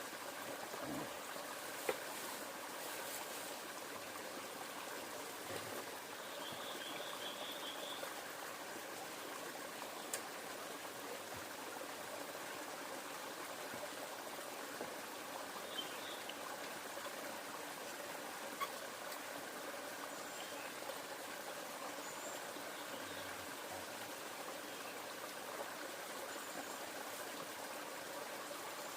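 River water flowing steadily, with a few faint sharp clicks.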